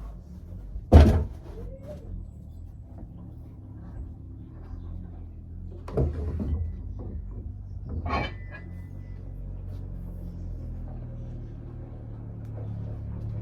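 A few sudden knocks or thumps, the loudest about a second in and two weaker ones later, over a low steady hum that grows slightly near the end.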